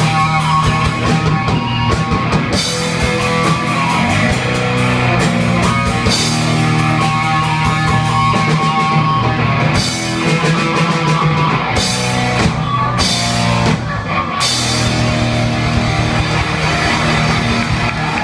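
Heavy metal band playing: distorted electric guitars, bass and a drum kit, loud and dense, with the cymbals dropping out briefly a few times.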